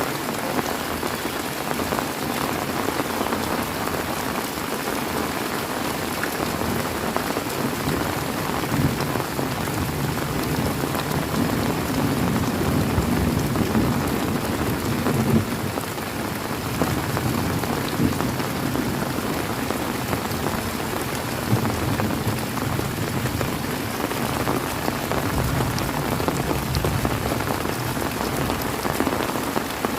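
Heavy rain falling steadily, with low rumbles of thunder through the middle and again near the end.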